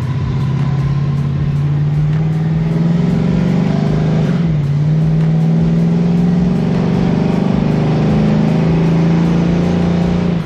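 LS V8 engine of a swapped 1970 Chevrolet Nova pulling under way while driving. The engine note climbs, drops briefly about four and a half seconds in, then climbs and holds.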